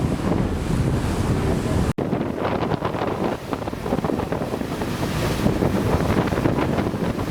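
Heavy wind rumble on the microphone over the rush of water from a fast river passenger launch under way. The sound breaks off for an instant about two seconds in.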